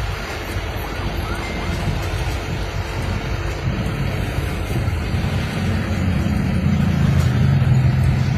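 Engine and road noise of a slow-moving vehicle heard from inside its cabin, a steady low hum that grows louder near the end.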